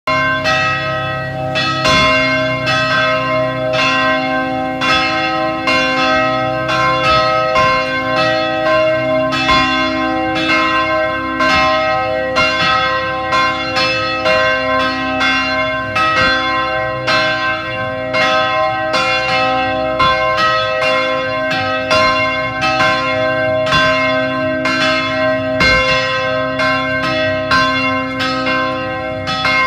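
A set of bells (carillon) mounted on a Scania ringing continuously, about two strikes a second, the notes overlapping in long ringing tones.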